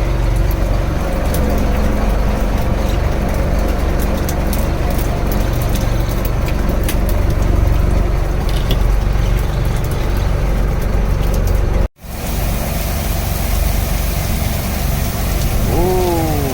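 A wooden fishing boat's engine runs steadily under drizzling rain, with scattered light ticks through the first half. The sound drops out for an instant about twelve seconds in.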